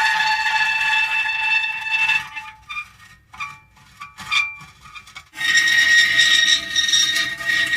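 Metal creaking: a long, high, steady squeal that breaks up about two seconds in into short stuttering creaks with brief lulls, then a new sustained squeal starts abruptly a little past five seconds in.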